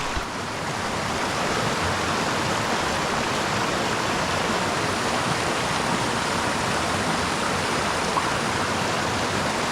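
Creek water rushing steadily, a constant even hiss of flowing water.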